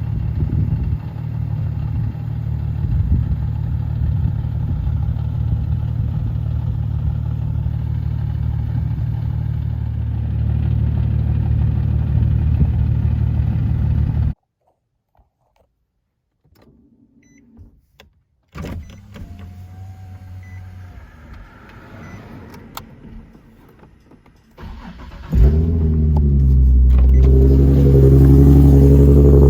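Nissan Z V6 running through a Motordyne and Tomei aftermarket exhaust: a steady, loud idle that cuts off abruptly about halfway, then a quieter stretch. Near the end the engine is started and settles into a loud, steady idle.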